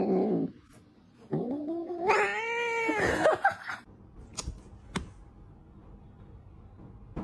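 Domestic cat yowling: a short call at the start, then one long, drawn-out yowl that rises and falls in pitch from about one and a half to nearly four seconds in. Two short clicks follow.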